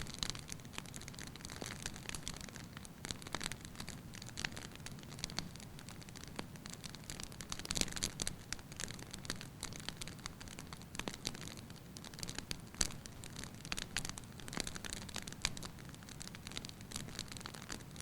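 Wood fire burning in a fireplace: firewood crackling lightly and irregularly over a low, steady hiss of flame, with a brief flurry of louder pops about eight seconds in and one sharp pop near thirteen seconds.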